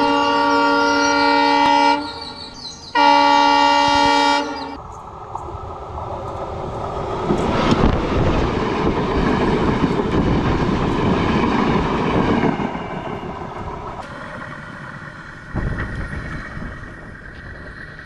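Train horn sounding two long blasts, the second starting about three seconds in. Then a passenger train passes close by, its wheels running over the rails, loudest in the middle and fading away.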